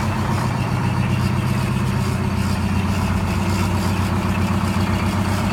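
Detroit Diesel 8V71 two-stroke V8 diesel idling steadily while still cold, after an ether-assisted cold start.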